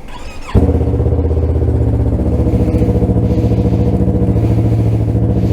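Yamaha R3's parallel-twin engine started: a short starter whir, then it catches about half a second in and settles into a steady idle.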